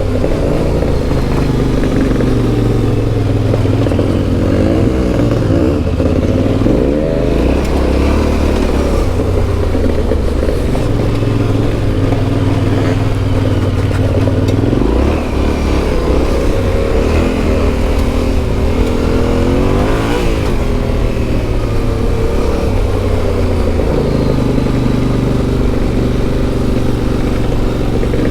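Yamaha Ténéré 700's CP2 689 cc parallel-twin engine running under load as it is ridden, its revs rising and falling again and again with throttle and gear changes, through an Akrapovič exhaust.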